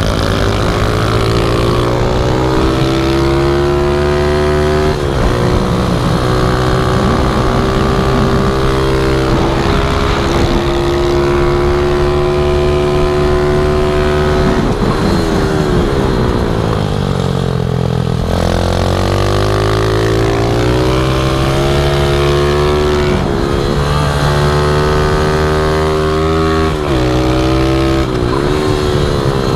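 Pit bike engine running hard, its pitch climbing and dropping in slow swells of several seconds each as the engine speed changes.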